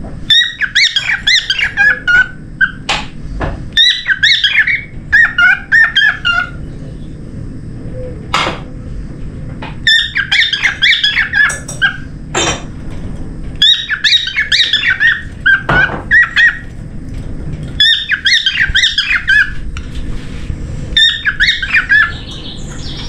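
Cockatiel chattering and warbling in six quick bursts of chirpy, bending notes, each a second or two long with short pauses between. A few sharp clicks fall in the pauses.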